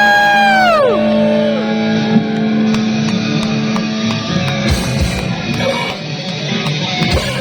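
Heavy metal band playing live, with distorted electric guitars and drums. A long held high note slides down in pitch and breaks off about a second in, and the full band then carries on with steady drum hits.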